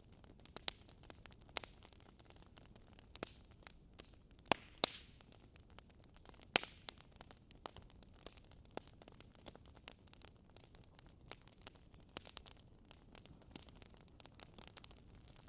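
Wood fire crackling in a fireplace: irregular sharp pops and snaps over a faint low hiss, with a couple of louder pops partway through.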